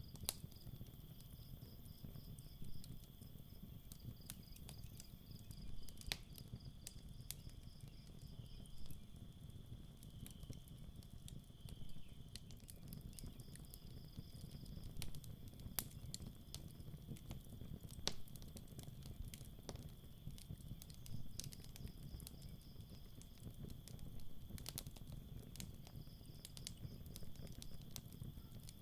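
Campfire crackling with scattered sharp pops, over crickets chirping in repeated trills.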